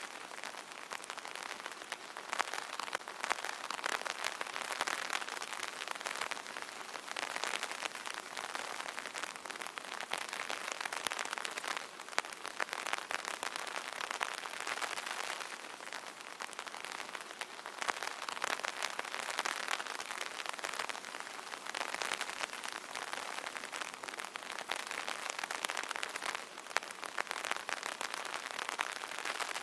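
Light rain pattering on an open umbrella canopy: a dense, even spatter of small drop impacts that swells and eases gently.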